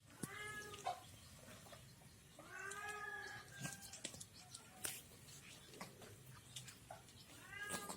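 Domestic cat meowing: a short call near the start, a longer drawn-out one about two and a half seconds in, and another beginning near the end, with short clicks between the calls.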